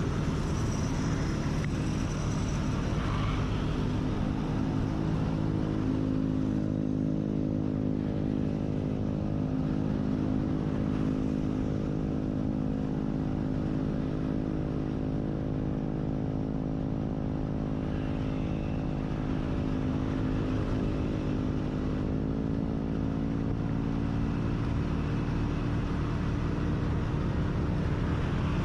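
Motorcycle engine running steadily while riding, with low rumbling wind noise. The engine note steps up slightly late on.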